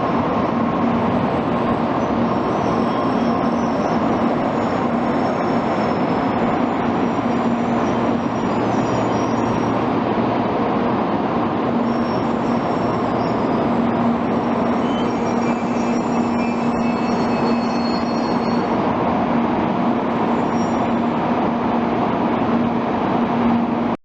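Tokaido Shinkansen train noise: a steady rumble with a low hum that holds the same level throughout.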